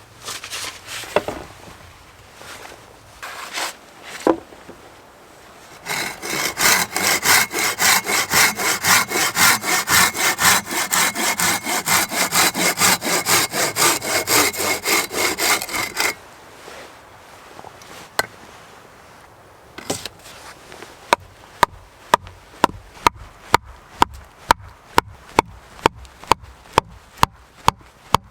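Hand saw cutting through wood in fast, even back-and-forth strokes for about ten seconds, after a few scattered knocks. Later a run of sharp, evenly spaced knocks, about two a second.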